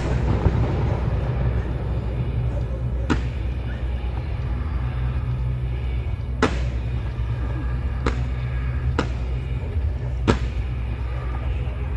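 Fireworks going off: about five single sharp bangs a second or more apart, over a steady low rumble.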